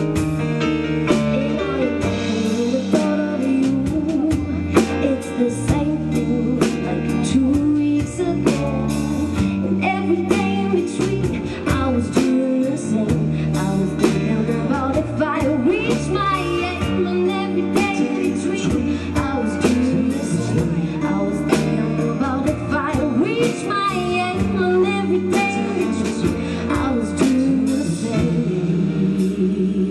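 Band music: a song with singing over guitar and drums, at a steady beat.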